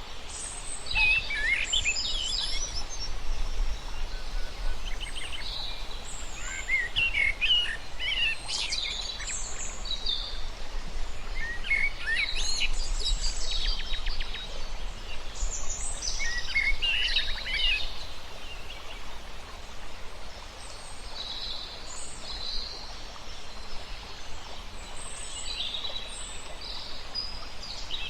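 Wild birds calling and singing, with clusters of quick chirps coming every few seconds, the later ones fainter and higher, over a steady outdoor noise bed and a low rumble that fades out about two-thirds of the way in.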